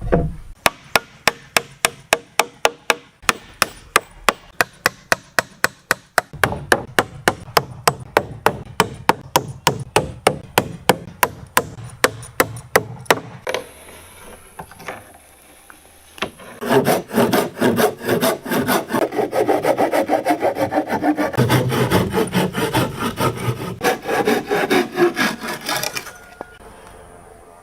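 Hand saw cutting wood in quick regular strokes, about four a second. After a pause of a few seconds the sawing starts again, denser and more continuous.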